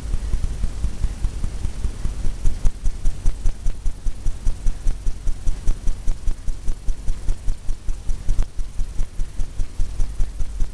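Paint brush tapping rapidly against a stretched canvas: an even run of soft thumps, about five a second, starting about two and a half seconds in.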